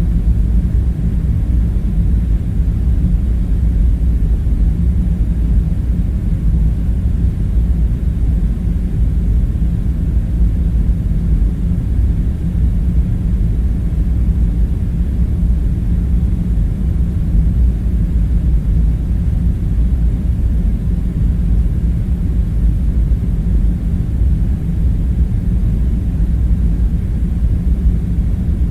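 Steady low rumbling drone of a room-ambience bed, unchanging throughout, with a faint hum in it and no distinct events.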